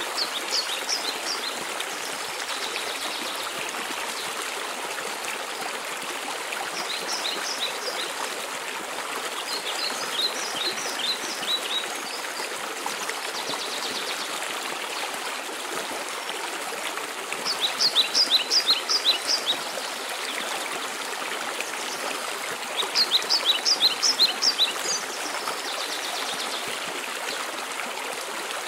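Steady rushing of a mountain waterfall, with a small songbird singing over it: five short phrases of quick, high, descending notes, the two loudest in the second half.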